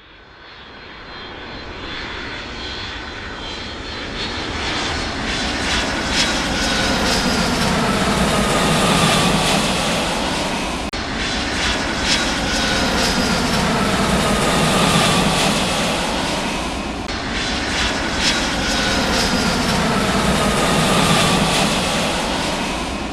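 Aircraft engines passing, a steady rushing with a high whine that falls in pitch; the recording cuts abruptly twice, so the falling whine comes three times.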